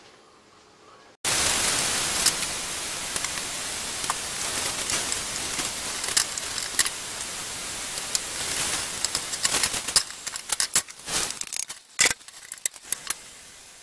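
Cabbage and vegetable egg-roll filling sizzling in a frying pan, starting suddenly about a second in and slowly fading, with scattered clicks and scrapes of a wooden spoon stirring it. Near the end the clicks and scrapes come thicker and sharper as the filling is scraped out into a metal mesh tray.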